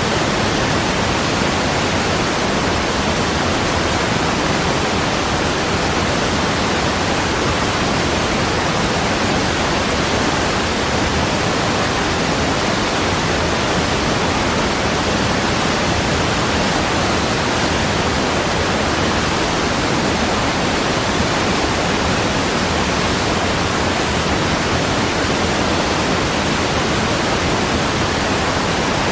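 Steady rushing water: a dense, even hiss with no change in level and no separate splashes or drops.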